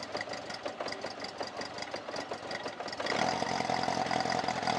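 Motorcycle engine idling with an even, ticking beat; about three seconds in it turns suddenly louder and fuller.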